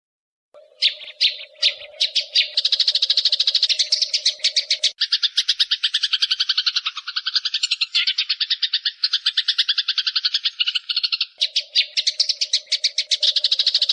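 Eurasian tree sparrows chattering in a fight: a fast, dense run of harsh chirps, many a second, starting about half a second in after silence. A steady low hum runs under the chatter for the first few seconds and again near the end.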